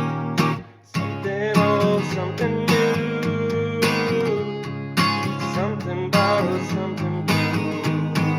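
Acoustic guitar strummed in a steady rhythm, with a held melody line over it. The playing breaks off briefly just under a second in, then picks up again.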